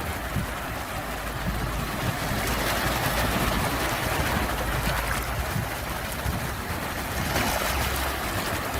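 Sea waves washing onto the shore in a continuous surf noise that swells a little a few seconds in and eases off again.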